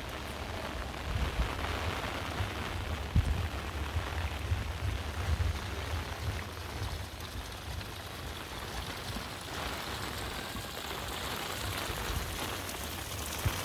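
Heavy rain falling steadily, a dense even hiss of drops on surfaces, over a low rumble with a few brief low thumps.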